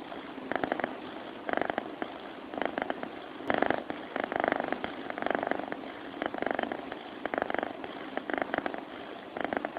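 Sleeping cat's rasping purr-snore, swelling and fading with each breath about once a second. A short click sounds about three and a half seconds in.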